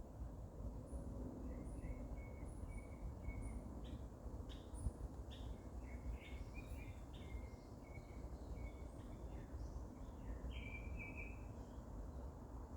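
Wild songbirds calling in woodland: many short chirps, some in quick runs, and a row of very high, thin notes, over a steady low rumble of background noise.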